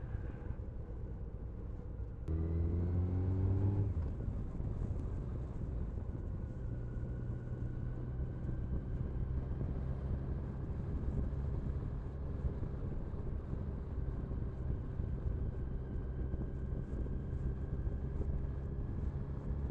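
Motorcycle engine running as the bike is ridden, heard through an action camera's microphone over a steady rush of wind and road noise; about two seconds in the engine note rises and gets louder as the bike accelerates, then settles into a steady cruise.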